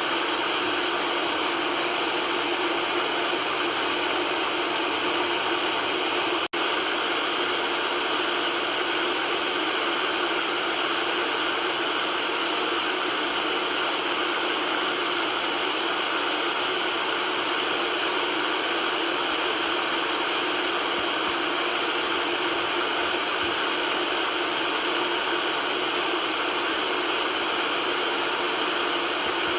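Steady white-noise hiss, thin in the bass and full through the middle and high range. It drops out for an instant about six and a half seconds in, then carries on unchanged.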